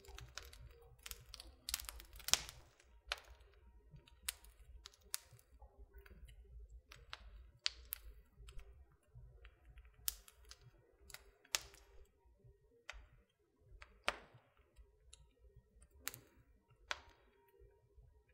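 Wood fire crackling in a fireplace: irregular sharp pops and snaps of burning wood, a few louder than the rest, over a faint low rumble.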